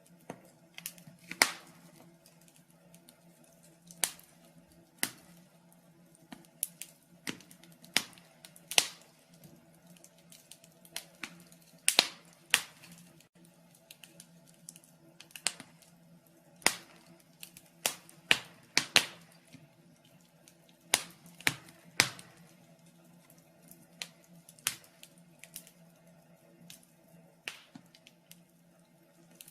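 Wood fire crackling in a fireplace: irregular sharp pops and snaps, a few much louder than the rest, with a faint steady low hum beneath.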